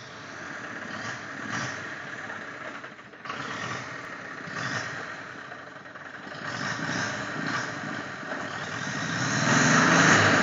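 Tractor engine running, growing louder toward the end.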